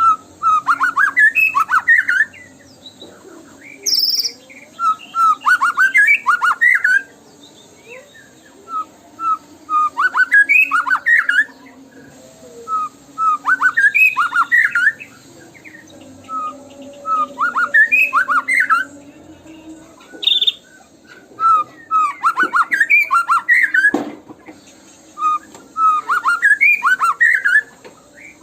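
White-rumped shama (murai batu) singing short bursts of rapid, sweeping whistled notes, each about two seconds long and repeated about every four seconds. There is one sharp click near the end.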